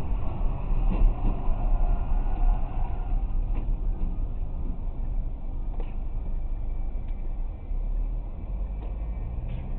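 Steady road and engine rumble of a moving car, heard from inside the cabin, with a few faint clicks and no impact.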